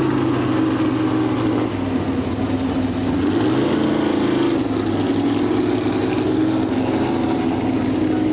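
Pro-street pulling truck's engine running at the end of its pull, its pitch dropping about two seconds in, then rising and falling again a little after three seconds.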